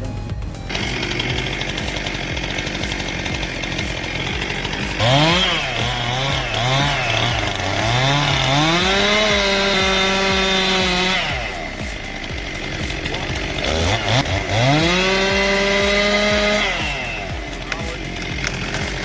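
Chainsaw revving: a few quick throttle blips about five seconds in, then run up and held at full throttle for a couple of seconds. It is revved up and held high again about fourteen seconds in before dropping back.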